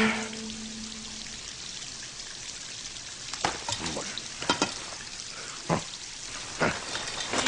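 Running water hissing steadily, with a handful of sharp knocks scattered through the middle, as when working on a leaky tap.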